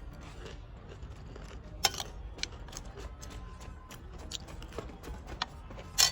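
Close-up eating sounds: scattered crunchy bites and chewing clicks, with two sharp cracks, one about two seconds in and a louder one near the end.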